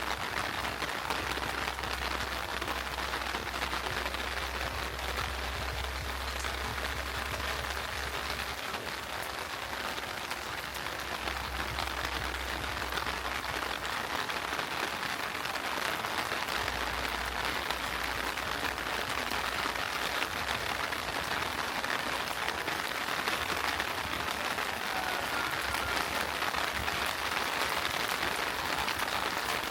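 Heavy rain falling steadily, a dense even hiss, with a low rumble that comes and goes underneath.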